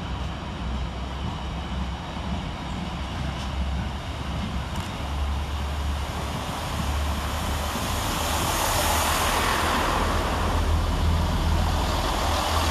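Class 165 diesel multiple unit running into the platform, its engines and wheels growing louder from about seven seconds in as it draws alongside. Underneath is the steady low rumble of a container freight train's wagons rolling past on the other line.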